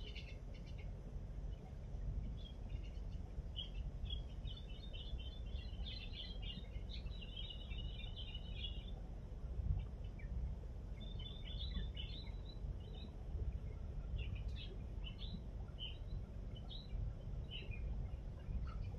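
Small birds chirping and twittering in quick runs of short high notes, busiest in the first half, over a steady low rumble.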